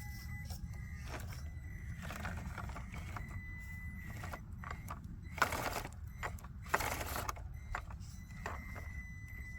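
Traxxas TRX4M RC rock crawler's small electric motor and gearing whining as it creeps over rough ground, with two louder scraping crunches from the truck on the rocks, a little over five and about seven seconds in.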